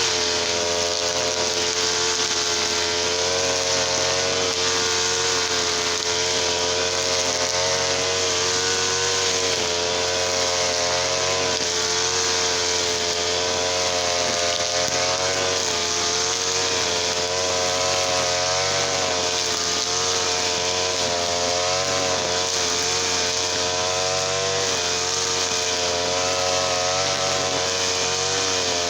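Small TL33 two-stroke petrol engine running steadily at high speed, its pitch wavering slightly up and down.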